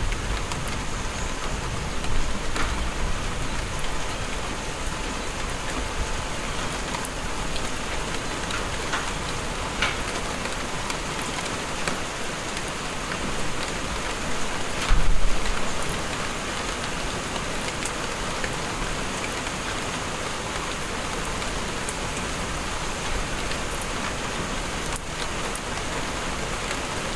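Steady heavy rain from a summer thunderstorm falling on grass and trees, an even hiss with scattered drop ticks. A brief low rumble swells up just past halfway.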